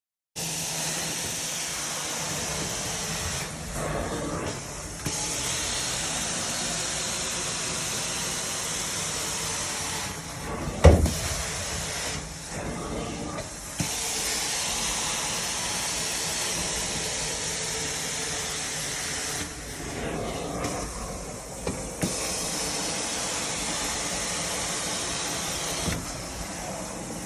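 Shark vacuum cleaner running on carpet: a steady hissing motor and airflow that dips briefly several times as it is worked over the floor. There is a sharp knock about eleven seconds in.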